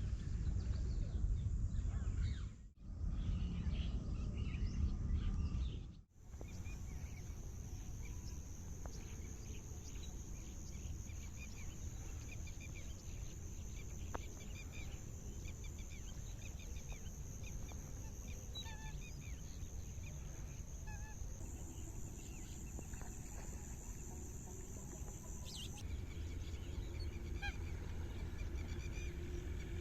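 A large flock of wetland waterbirds calling, many short calls overlapping, over low wind rumble on the microphone.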